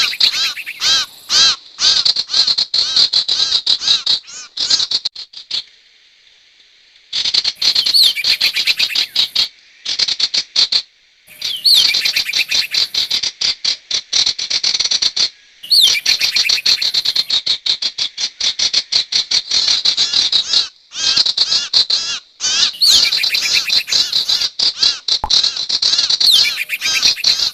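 Recorded lure call of the songbird known in Indonesia as 'sirtu': a loud, rapid stream of high, repeated chirping notes. It comes in runs several seconds long, with short pauses between them and a longer pause about six seconds in.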